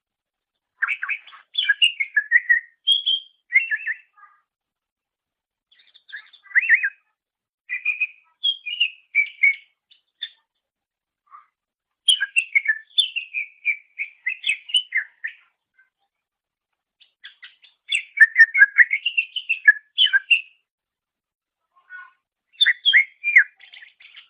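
Cucak ijo (greater green leafbird) singing in five bursts of rapid, jumbled high notes, each two to three seconds long, with short pauses between them.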